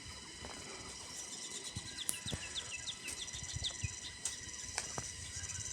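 A songbird sings a quick run of about ten short, falling whistled notes about two seconds in, over a steady high buzz of insects. A few scattered clicks are heard as well.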